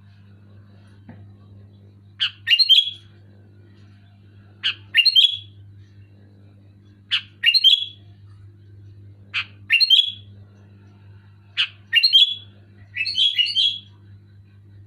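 Sooty-headed bulbul (kutilang) repeating a short, loud song phrase six times, about every two to two and a half seconds: each a sharp note followed by a quick run of notes. A steady low hum runs underneath.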